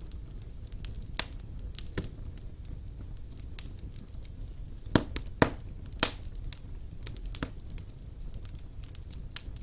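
Wood fire burning in a fireplace: a low steady rumble with irregular sharp crackles and pops, a few louder snaps around the middle.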